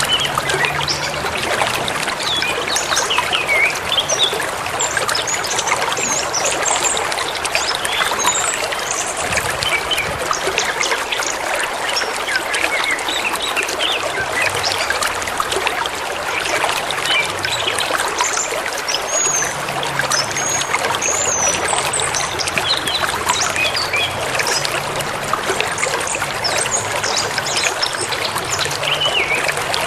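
A river running over stones in a steady rush of water, with birds chirping and whistling over it here and there.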